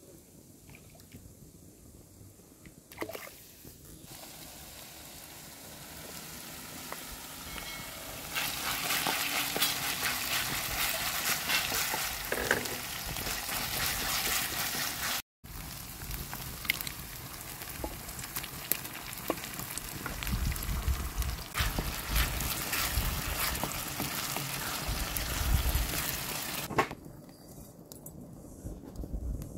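Minced meat and vegetables frying and sizzling in a pan, with many small pops and the scrape of a wooden spoon stirring it.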